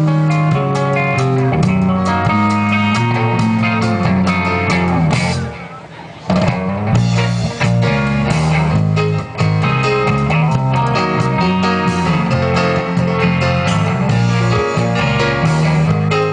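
A band playing the instrumental opening of a song, with guitar prominent over a steady bass line. The music drops out briefly about five and a half seconds in, then comes back in full.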